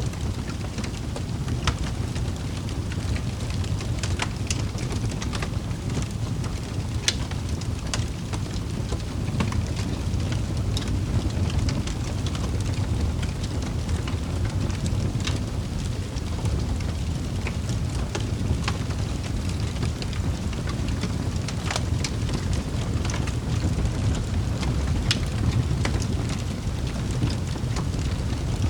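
Wood fire crackling in a fireplace: a steady low rumble of burning, with scattered sharp pops and snaps of the logs.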